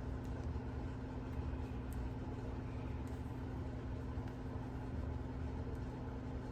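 Steady low mechanical hum with one constant tone.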